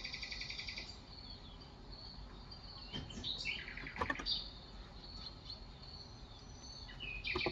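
Wild birds chirping with rapid trills that come and go several times, with a few sharp clicks from keystrokes on an electrostatic-capacitive keyboard in between.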